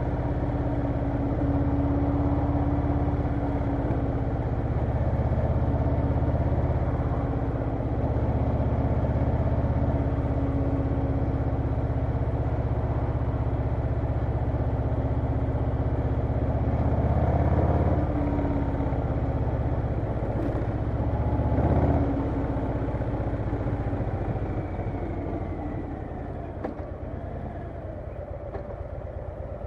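Harley-Davidson Low Rider S V-twin engine running steadily under way, its note shifting a few times; about three-quarters through it swells, then falls away as the bike eases off.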